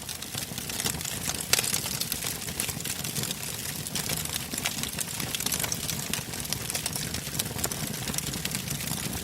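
Wood fire burning in a fireplace, crackling with dense irregular pops over a low steady rumble of flames, one louder pop about a second and a half in.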